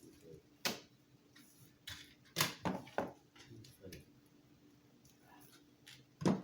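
A few sharp clicks and knocks from small hard parts being handled and set down: one about a second in, a quick cluster in the middle and a louder one near the end.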